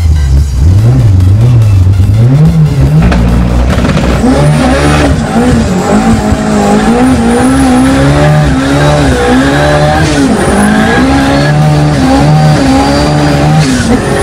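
Modified car's engine heard from inside the cabin under hard acceleration. Its pitch climbs in short steps over the first few seconds, then keeps rising and falling about once a second. A faint high whine climbs slowly through the second half.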